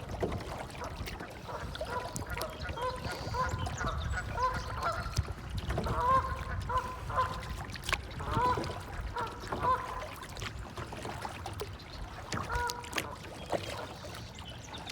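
Waterfowl calling: a run of short, repeated honking calls, several a second, a pause, then a few more near the end, over a steady low rumble.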